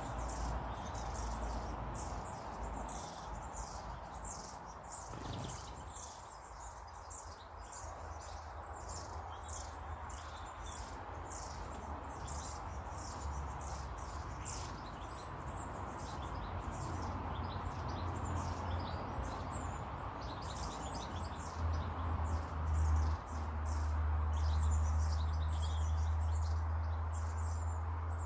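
Many small birds chirping and twittering at once, a dense run of short high calls with no pause. A low rumble underneath grows louder near the end.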